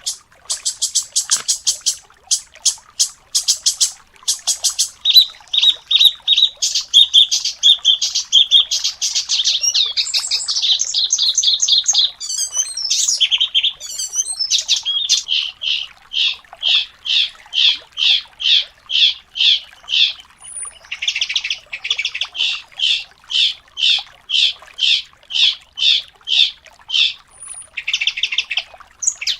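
Songbird singing a fast, tightly packed song: quick runs of rapid notes and trills at first, then evenly repeated high phrases about two a second.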